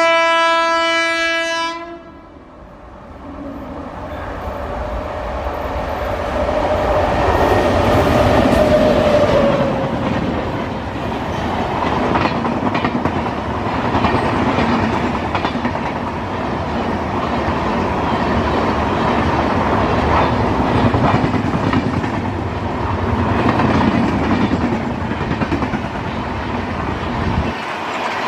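A train horn sounds one steady blast for about two seconds, then a train approaches and runs past, its wheels clattering over the rail joints in a long, continuous rumble that builds over several seconds and holds until it cuts off suddenly near the end.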